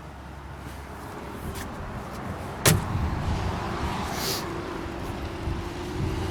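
Wind on the microphone and road traffic rumble. About two and a half seconds in comes a single sharp click from the Mercedes G-Class, followed by a faint steady electric whir as the car comes alive.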